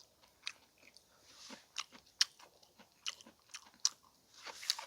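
A person chewing food close to the microphone: irregular wet clicks and smacks of the mouth, with a couple of short breathy noises, one about a second and a half in and one near the end.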